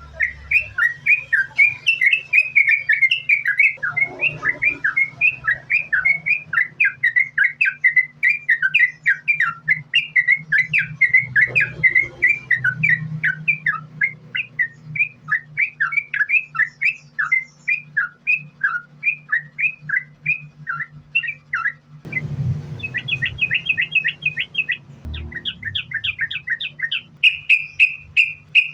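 Yellow-vented bulbul (trucukan) singing an unbroken string of quick chirping notes, about three a second. A brief pause about two-thirds of the way through is followed by a faster rattling run before the chirps go on. A steady low hum runs underneath.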